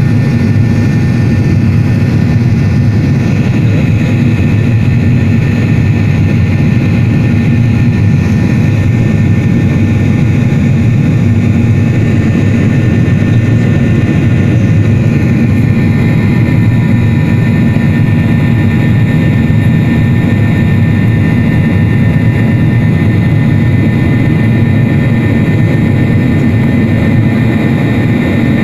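Jet airliner engines and airflow heard from inside the passenger cabin: a loud, steady rumble with a few faint, even whines above it.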